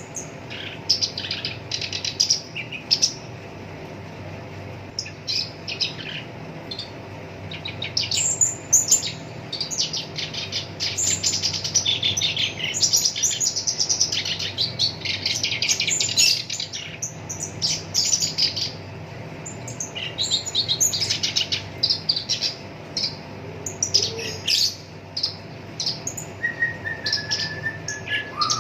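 Black-browed reed warbler singing: rapid, harsh chattering phrases in bursts with short pauses, densest through the middle, over a faint steady background hum.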